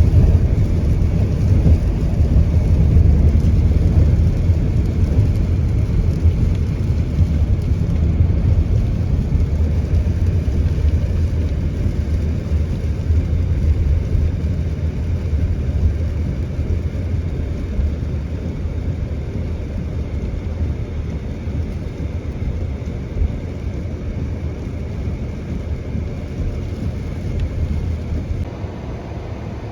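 A car driving in heavy rain, heard from inside the cabin: a steady low rumble of road and tyre noise that slowly grows quieter, dropping a little more near the end.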